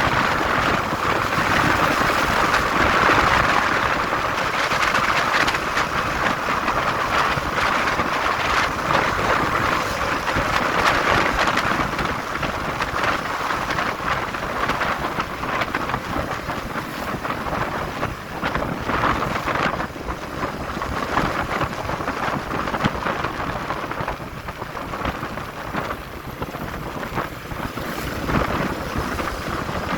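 Wind rushing over the microphone on a moving motorcycle, mixed with road and engine noise: a steady, loud rush that eases slightly in the second half.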